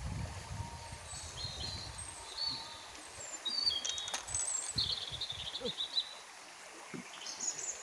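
Small birds chirping, with a warbling trill about five seconds in, over a steady hiss of outdoor background noise. A low rumble runs under the first couple of seconds.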